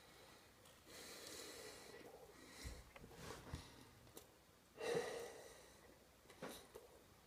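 Faint heavy breathing through the nose of a man chewing a large mouthful of food, with a few small clicks and one short, louder breath about five seconds in.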